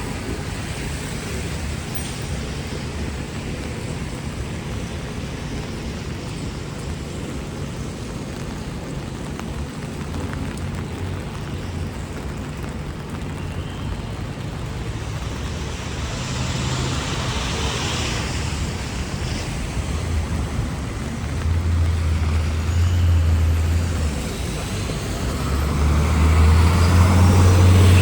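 Midtown street traffic on a wet avenue: a steady hum of engines and tyre hiss, with heavy vehicles rumbling past close by about three-quarters of the way through and again, loudest, near the end.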